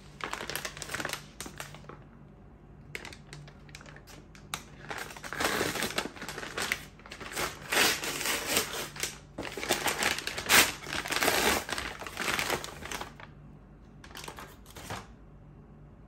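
Irregular crinkling and rustling with many sharp clicks, in bursts: something being handled or crumpled, busiest in the middle and ending with a short burst near the end.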